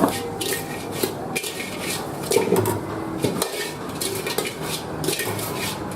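Metal spatula scraping and clanking against a wok during stir-frying, in an irregular run of strokes over a steady background roar.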